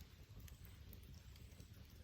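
Campfire burning faintly, with a few soft crackles over a low steady rumble.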